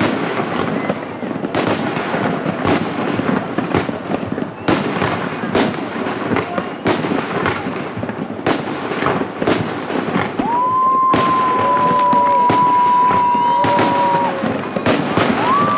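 Fireworks display: aerial shells bursting in a quick, irregular run of sharp bangs with crackle between them. About ten seconds in, a steady high whistle joins and holds for several seconds, then starts again near the end.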